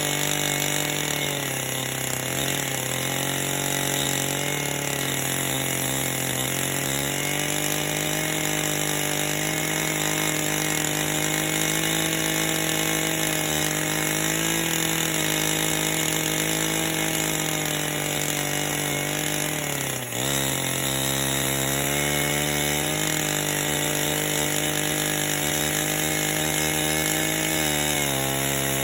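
Chainsaw running at high revs in a bolt-on mobile mill attachment, ripping a log lengthwise into boards; the engine pitch wavers under the load of the cut. About twenty seconds in the revs dip sharply and pick straight back up, and they sag again near the end.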